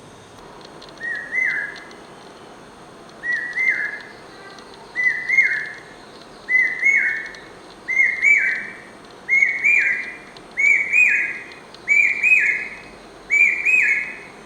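Common hawk cuckoo (brain fever bird) singing: a series of nine short whistled phrases of about three notes each, repeated every second and a half or so, each phrase pitched a little higher and louder than the last.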